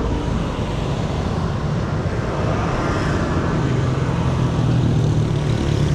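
Motorcycle engine running steadily at a low, even pitch, growing a little stronger about halfway through.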